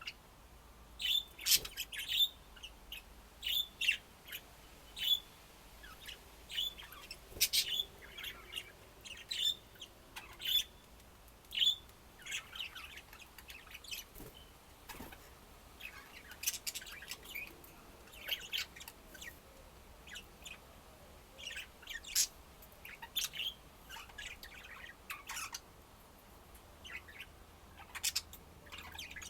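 Pet budgerigars chirping in short, scattered high calls, one after another.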